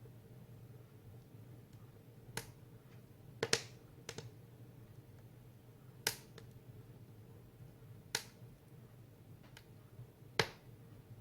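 Firewood burning in a Tulikivi soapstone wood stove, crackling with sharp, irregular pops every second or two over a faint steady low hum.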